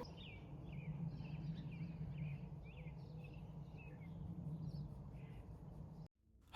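Faint outdoor birdsong: a bird repeating short quick chirps for about five seconds, over a low steady hum. The sound cuts out abruptly near the end.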